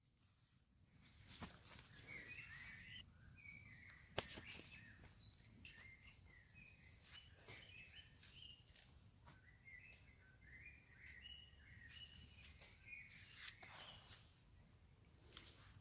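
Faint outdoor ambience: small birds chirping on and off, with a few sharp clicks, the loudest about four seconds in.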